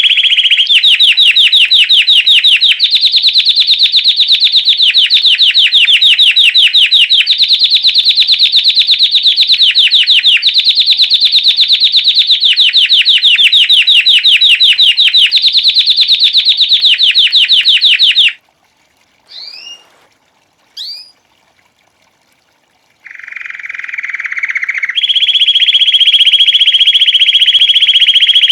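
Belgian canary singing a long series of very rapid trills, each run held for a couple of seconds before switching to a new pitch. The song breaks off about two-thirds through, two short chirps follow, and then a lower trill starts and moves into a higher one near the end.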